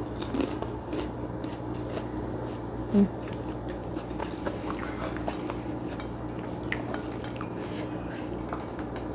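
Close-up eating sounds: chewing and small wet mouth clicks as a person eats rice and side dishes by hand. A brief voiced 'mm' comes about three seconds in.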